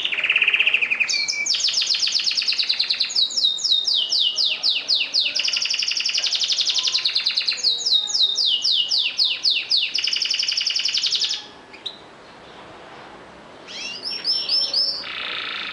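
Domestic canary singing a long song of rapid trills and repeated notes, which stops about eleven seconds in; a short burst of song follows near the end.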